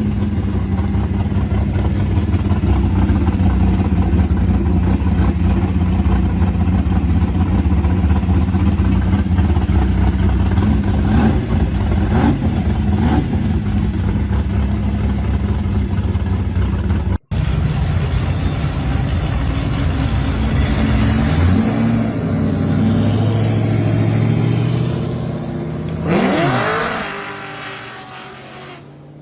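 Muscle car engine idling loudly with a few quick throttle blips. After a cut, another muscle car engine revs up and drops back, then fades away as the car pulls off.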